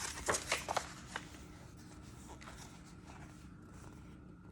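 Paper rustling with a few light taps in the first second, as a picture book's page is handled and turned, then quiet room tone.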